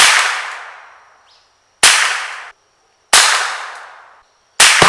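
Rifle firing four single shots, roughly one and a half seconds apart, each followed by a long fading echo.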